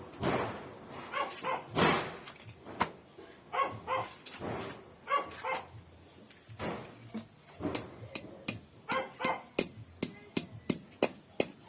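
A dog barking in short groups of barks several times, mixed with sharp taps and knocks that turn into a quick, even run of taps near the end.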